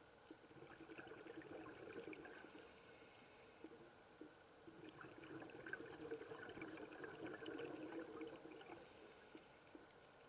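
Faint sloshing, crackly water sounds that swell up twice, for a few seconds each time.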